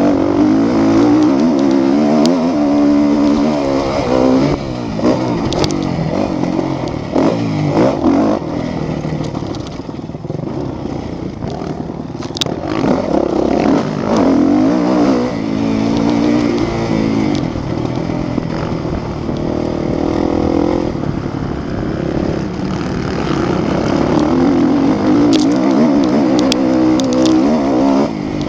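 Motocross motorcycle engines revving hard and backing off over and over, the pitch climbing and dropping as they ride.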